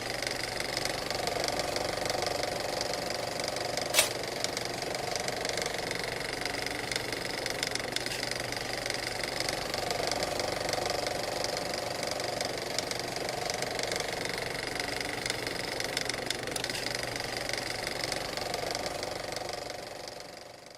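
Helicopter running: a steady mechanical drone with several high, constant whining tones. There is a single sharp click about four seconds in, and the sound fades out at the very end.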